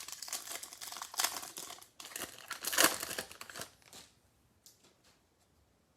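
Foil trading-card pack wrapper crinkling and tearing open as a pack of baseball cards is unwrapped, loudest about one and three seconds in and done by about four seconds.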